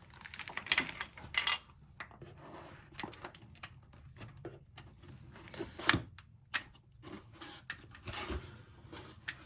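Scattered handling noises: light clicks, rubbing and small knocks of parts being turned over in the hands, with a couple of sharper knocks about six seconds in.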